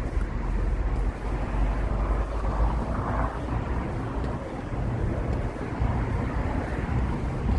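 Evening street ambience: a steady wash of traffic noise with a deep rumble of wind buffeting the microphone, swelling slightly about three seconds in.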